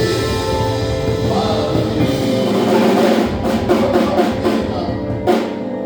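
Live band music with a drum kit and sustained instrument tones, with a loud drum hit near the end as a song comes to a close.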